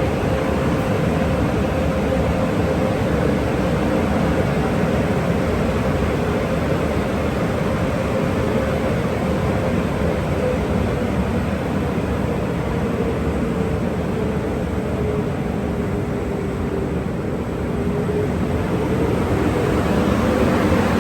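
Automatic tunnel car wash equipment running: a loud, steady rushing noise with a humming tone that wavers slightly in pitch.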